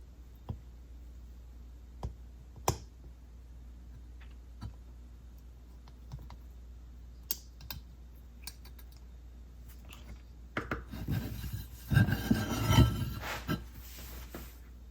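Small metal parts and hand tools handled on a workbench: scattered light clicks and taps, then a few seconds of louder clattering and rattling near the end.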